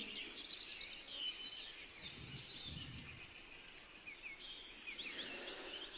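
Faint birds chirping: many short, quick chirps scattered through the pause, over low background noise.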